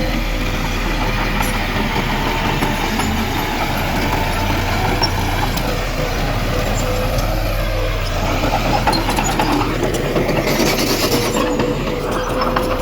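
Heavy earthmoving machinery at work: a diesel engine running steadily under load, with a thin steady whine and metallic clanking.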